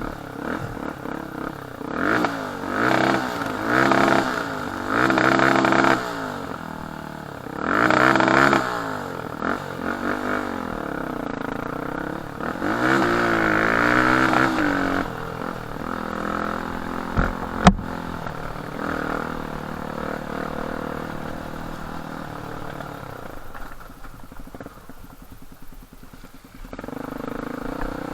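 Enduro dirt bike engine revving up and down in repeated throttle surges as it rides, with a single sharp knock a little past halfway and steadier, lower running near the end.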